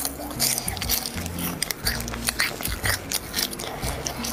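Close-miked chewing of spicy sticks, many short wet clicks and smacks of the mouth in quick succession, over background music.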